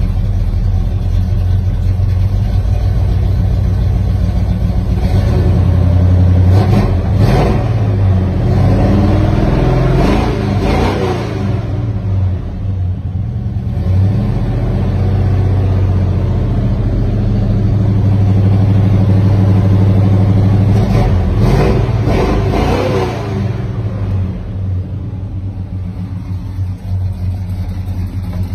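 1969 Chevrolet El Camino's 350 small-block V8 idling and being revved, heard from inside the cabin. A few revs rise and fall about a quarter of the way in, and more come about three-quarters of the way in, settling back to a steady idle between.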